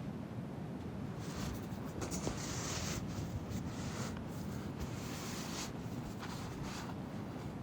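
Irregular rustling and scratching, strongest from about a second in until near the end, over a steady low rumble.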